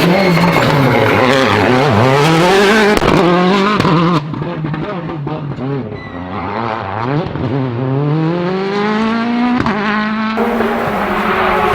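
World Rally Car turbo engines at full throttle. The pitch dips and climbs as the driver lifts and shifts, then climbs in one long pull through a gear, with a couple of sharp cracks from the exhaust. The sound changes abruptly twice as different cars come into hearing.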